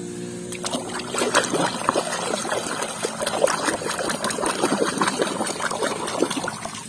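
Water splashing and trickling in quick, irregular splashes as a muddy plastic toy is washed by hand in a tub of water. The splashing starts about half a second in.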